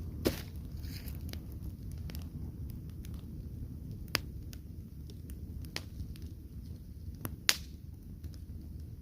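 Wood fire crackling: a steady low rumble of burning with scattered small snaps and three louder pops, near the start, about four seconds in and near the end.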